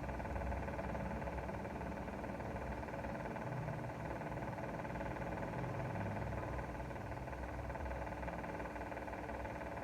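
Steady low rumble of a vehicle running, heard from inside it, with no sudden events.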